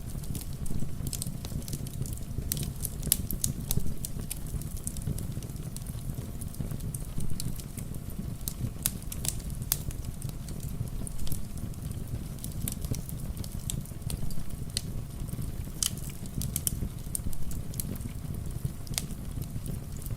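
Wood fire crackling with irregular sharp snaps and pops, over a steady low rush of rain.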